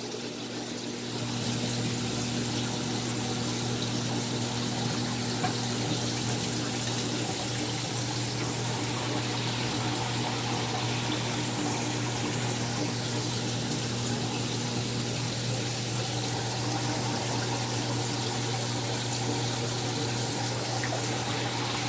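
Aquarium circulation running: a steady low pump hum under a constant hiss of moving and trickling water.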